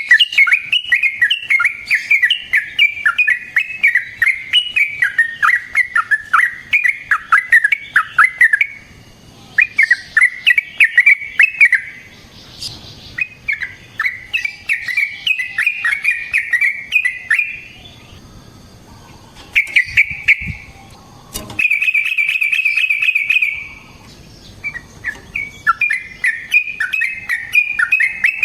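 Yellow-vented bulbul (trucukan) singing long runs of quick, bubbly chattering phrases, broken by a few short pauses. About two-thirds of the way through comes a couple of seconds of a fast, even trill.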